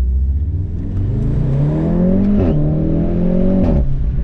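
Volkswagen Golf 7 R's turbocharged 2.0-litre four-cylinder with an Akrapovic exhaust under hard acceleration in race mode. The revs climb, fall sharply at an upshift about two and a half seconds in, then climb again and fall near the end.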